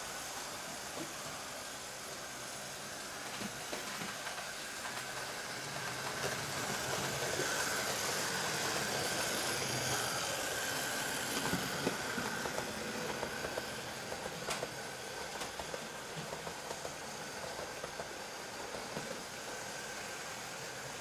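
Hornby 00 gauge Gresley A4 model locomotive running at speed on its track, with the ringfield motor in its tender whirring and the wheels ticking over the rail joints. It grows louder about eight to twelve seconds in, as it passes nearer, then eases off.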